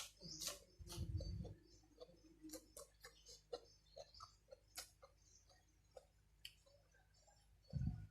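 Soft, irregular mouth clicks and smacks of someone eating and drinking close to the microphone, with a louder gulping stretch about a second in.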